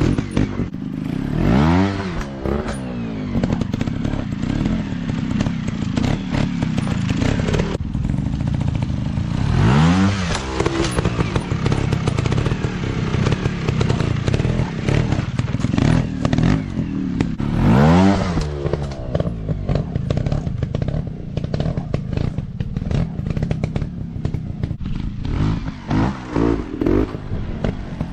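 Dirt bike engines running off-road, rising sharply in pitch four times, about every eight seconds, as the throttle is opened, with a steady low engine drone in between.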